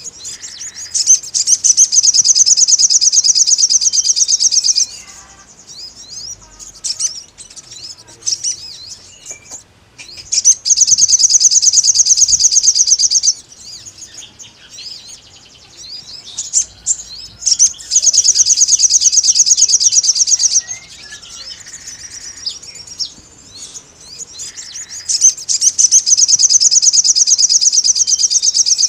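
Sogon bird singing in full voice: four long bouts of fast, high trilling notes, each lasting three to four seconds, with softer scattered chirps in between.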